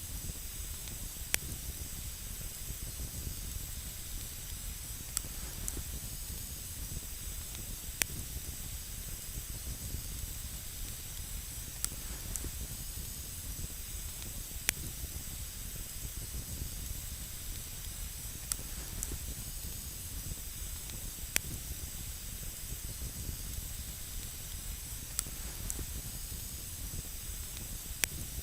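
Wood campfire burning, with single sharp crackling pops every few seconds over a steady hiss.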